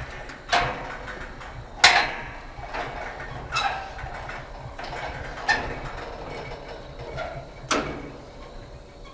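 Metal scaffolding clanking under someone climbing or stepping on it: five sharp knocks spaced unevenly over the stretch, each ringing briefly.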